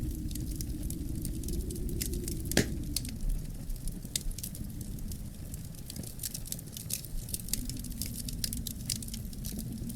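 Wood fire in a fireplace crackling: many sharp pops and snaps over a low steady rumble of the burning, with one louder pop about two and a half seconds in.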